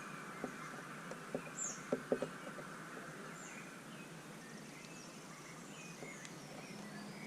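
Small birds at a seed feeder giving short scattered chirps and tweets, with a quick run of sharp taps about a second in that is the loudest part, over a steady background hiss.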